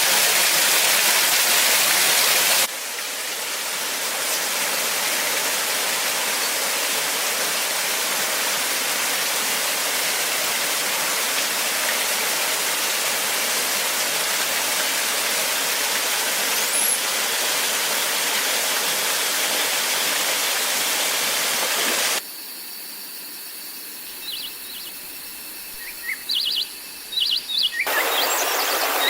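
Steady rush of running water, which changes abruptly to a slightly different water sound about three seconds in. Near the end it drops for several seconds to a quieter background with a few short, high bird chirps, then the loud rushing water returns.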